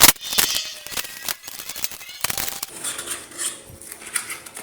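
Styrofoam and packing tape being handled: a sharp click, then a run of irregular clicks and crackles.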